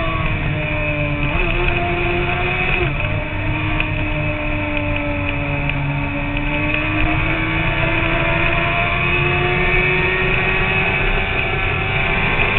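Sport motorcycle engine running at highway speed, its pitch sagging slowly and then climbing again as the throttle eases and opens, over a heavy rush of wind and road noise.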